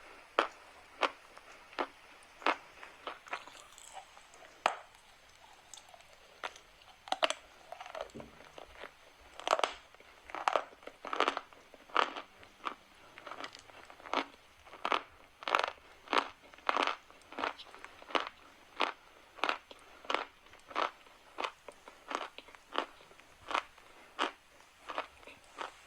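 Chalk crunching in a long series of sharp, irregular crunches, about one or two a second.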